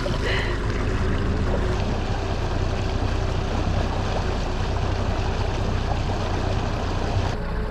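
Small fishing boat under way at trolling speed: a steady motor hum with water rushing along the hull. Near the end the sound changes abruptly to a steadier engine hum with a single clear tone.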